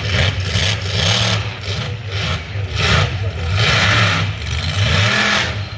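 Monster truck engine revving up and down again and again in surges, with a loud, rough roar that fills the arena.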